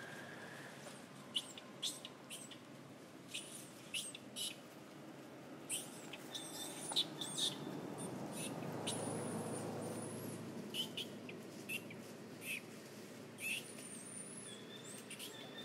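Small birds chirping: many short, sharp high chirps scattered irregularly, with a few thin high whistles. A low rumble swells and fades around the middle.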